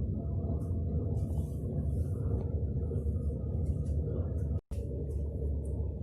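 Steady low rumble of a moving vehicle heard from inside, broken off by a sudden cut a little over four and a half seconds in before it carries on.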